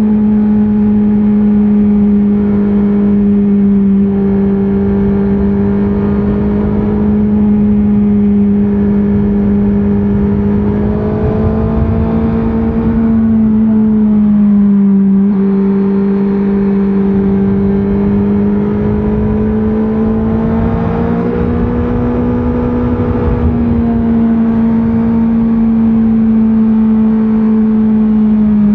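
2024 Honda CBR650R's stock inline-four engine running under way at a fairly steady pitch that rises and falls gently, with a brief dip about halfway through.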